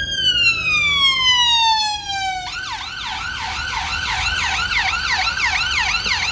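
Emergency vehicle siren: a slow wail falling in pitch, then about two and a half seconds in it switches to a fast yelp, about three to four cycles a second, which cuts off near the end.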